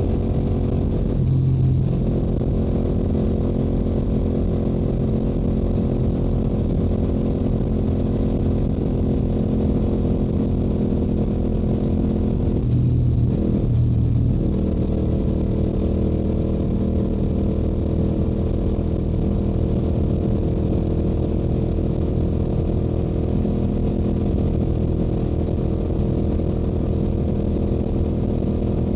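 Stock exhaust of a Yamaha YZF-R7's 689 cc parallel-twin engine running at a steady highway cruise. Its pitch dips briefly twice, about a second in and again around thirteen seconds in.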